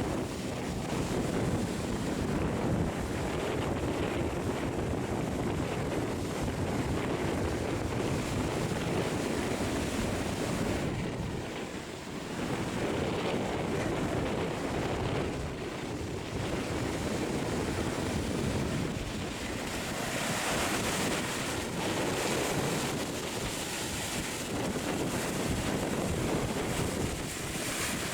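Ocean surf: waves breaking and washing continuously, with wind buffeting the microphone. A brighter, hissing wash comes in during the last third.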